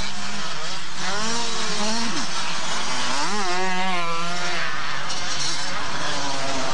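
Several two-stroke motocross motorcycle engines revving, their pitch climbing and dropping again and again over a steady haze of engine noise.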